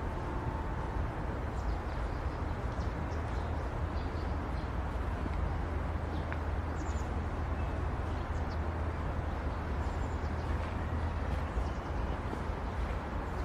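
Outdoor ambience of a city park: a steady low rumble like distant traffic, with a few brief high bird chirps scattered through it.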